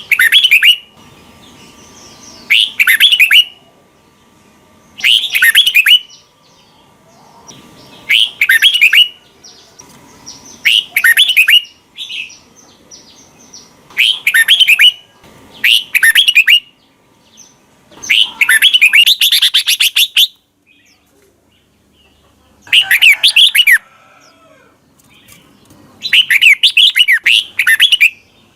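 Red-whiskered bulbul singing short, loud, warbling phrases every two to three seconds, with one longer phrase about two-thirds of the way through.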